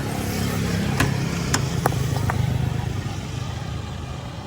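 A motor vehicle's engine running steadily, swelling a little and then easing off, with four sharp metallic clicks in the first half.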